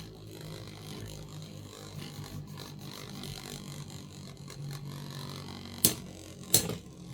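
Two Beyblade X tops, Blackshell and Wizard Arrow, spinning and grinding against each other in a plastic stadium with a steady low whirr. Near the end, two sharp clacks as the tops hit hard.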